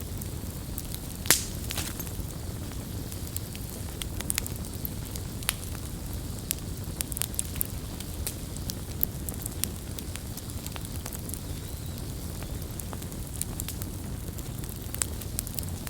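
Wood campfire burning, with a steady low rumble of the flames and frequent sharp crackles and pops at irregular intervals; the loudest pop comes about a second in.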